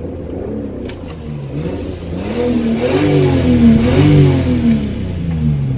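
1997 Lexus GS300's 2JZ-GE straight-six, secondary muffler removed, with the engine speed rising and falling. The pitch climbs twice, loudest around the middle, then drops back. A loud, droning exhaust note.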